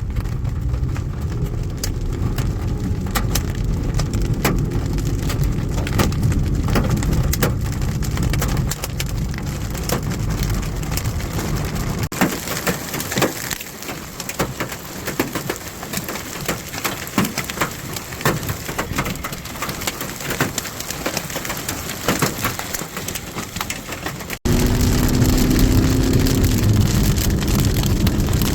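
Rain hitting a car, with many sharp taps of individual drops over the low road rumble of the moving car. The rumble falls away about twelve seconds in and comes back louder after an abrupt cut near the end.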